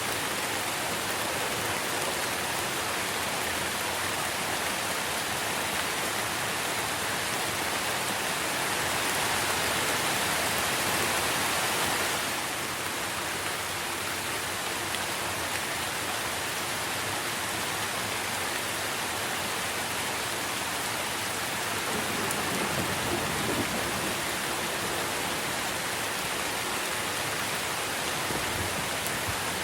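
Steady rain falling on tree foliage, a dense even hiss of drops. It swells a little for a few seconds before the middle, then eases suddenly.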